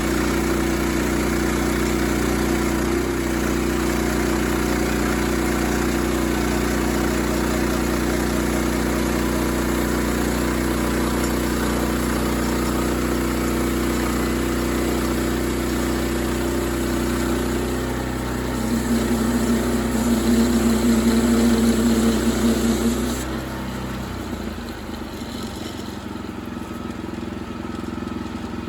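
An engine running steadily. It grows louder and harder-working about 18 seconds in, then drops back to a quieter running sound about 23 seconds in.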